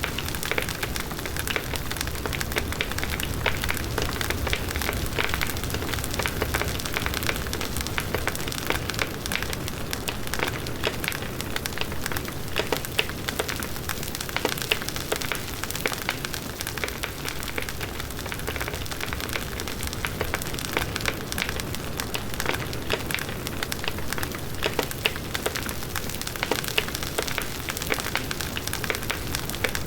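Wood bonfire burning steadily: a constant rush of flames with dense crackling and frequent sharp pops from the burning wood.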